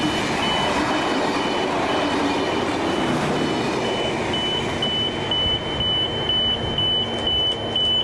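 Steel-wheeled passenger carriages rolling past on the rails, a steady rush of wheel and track noise that thins out after the last carriage goes by about four seconds in. Over it, a high electronic beep repeats about twice a second and grows louder in the second half.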